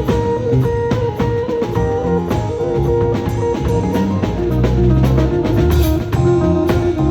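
Live band playing an instrumental passage: guitar over bass and a drum kit with a steady beat.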